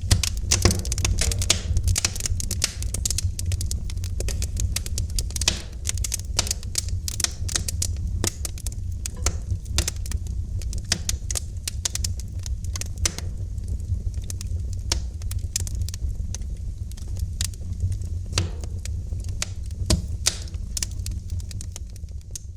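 Wood fire crackling in a fireplace: dense, irregular snaps and pops over a steady low rumble.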